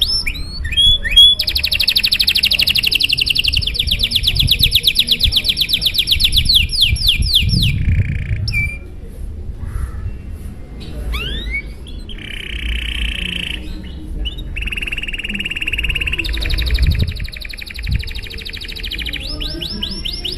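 Domestic canary singing a long, full song of fast rolling trills, the rapid repeated notes running for several seconds at a time. There is a short lull with a few scattered notes about halfway through, then further trills at shifting pitches.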